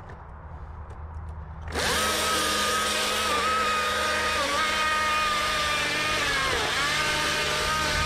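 Battery chainsaw (Stihl MSA 220) starting instantly with a quick rising whine a little under two seconds in, then cutting into a hollow oak trunk, its steady whine dipping in pitch a couple of times as the chain loads in the wood.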